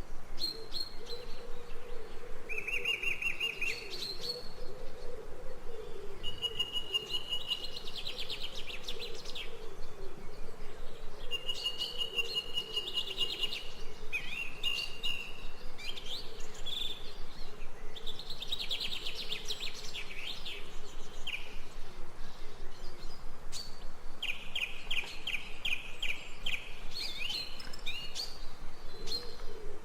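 Songbirds chirping and singing in short trilled phrases, one after another, with a faint low wavering tone under the first half.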